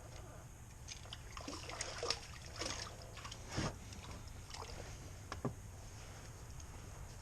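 Light water splashing and sloshing around a small fishing boat, with scattered knocks and clicks a second or two apart over a steady low hum.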